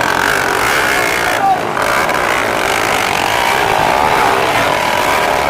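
Several four-valve underbone motorcycle engines running at high revs in a race, their overlapping pitches wavering up and down.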